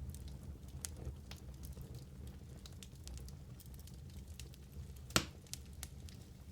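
Wood fire burning in a fireplace: a low steady rumble of flame with scattered crackles and small pops, one louder pop about five seconds in.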